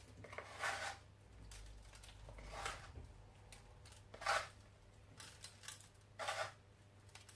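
Faint handling sounds of chicken halves being seasoned: four short, crisp rustles spaced a second or two apart.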